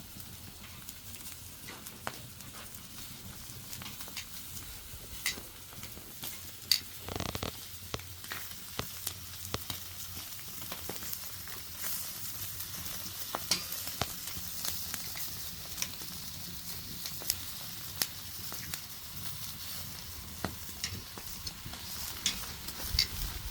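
Food frying in a pan: a steady sizzle with frequent sharp pops and crackles, and a brief louder stir or scrape about seven seconds in.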